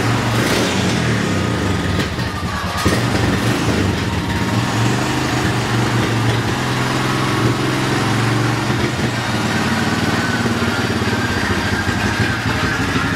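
Honda ATV engine running, its pitch shifting a little now and then.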